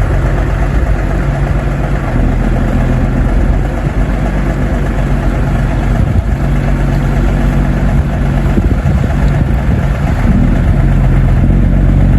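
Scallop fishing boat's engine running steadily, with a deep, even hum; its note shifts slightly about two seconds in and again near the end.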